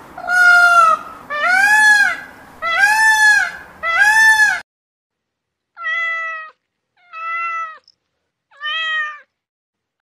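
An Indian peafowl (peacock) giving four loud calls about a second apart, each rising and falling in pitch. After a short gap a domestic cat meows three times, more quietly.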